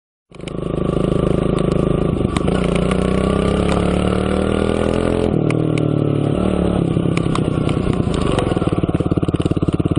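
Motorcycle engine running loudly close by, its pitch dropping about halfway through and settling into an even pulsing near the end.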